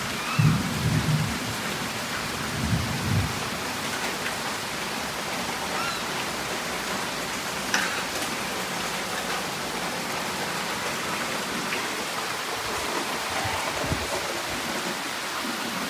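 Heavy rain falling steadily in a thunderstorm, with low rumbles of thunder in the first few seconds.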